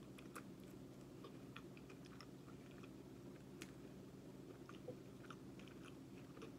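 Faint, close-miked chewing of a chicken nugget dipped in barbecue sauce: many small, soft mouth clicks and smacks scattered throughout.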